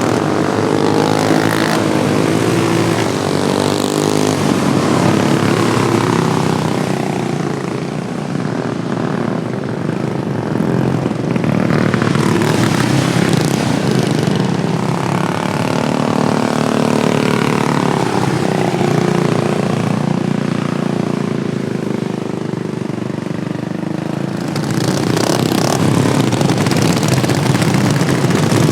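Several modified racing lawnmower engines running hard around a track, several overlapping engine notes rising and falling in pitch as the mowers accelerate, brake and pass.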